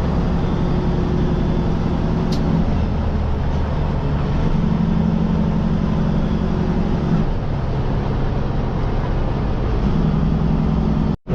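Diesel truck engine running steadily while driving, its pitch stepping up and down every few seconds as throttle and gears change. The sound cuts out for a moment near the end.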